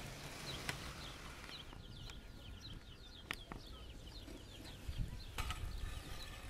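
Birds chirping in the background: short high chirps, several a second. A few sharp clicks are mixed in.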